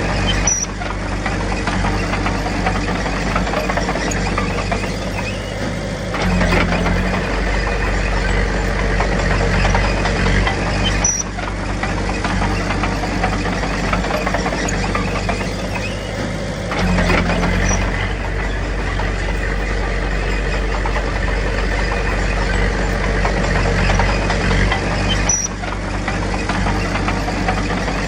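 Diesel engine of heavy earthmoving machinery running steadily, its note shifting abruptly every several seconds.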